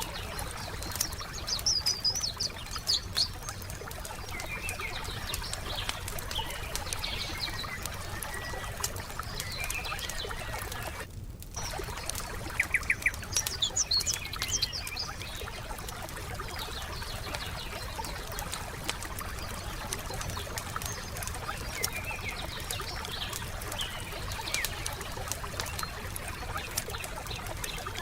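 Wood fire crackling with many small pops, while songbirds chirp and sing in short bursts, busiest near the start and again about twelve seconds in. The crackle and birdsong drop out for an instant about eleven seconds in.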